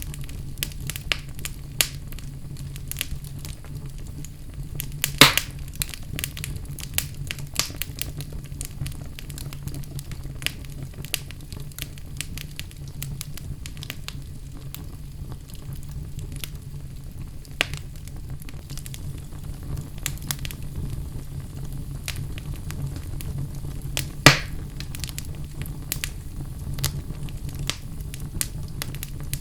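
Wood fire burning in a fireplace: a steady low rumble of flames with scattered crackles and pops, two louder pops about five seconds in and near the three-quarter mark.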